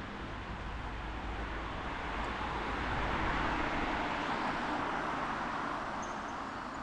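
A car passing on a wet street: its tyre hiss swells to a peak about three seconds in and then fades, over a low traffic rumble.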